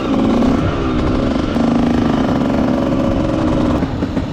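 125cc two-stroke dirt bike engine running at varying revs, its pitch stepping up about a second and a half in and easing off near the end.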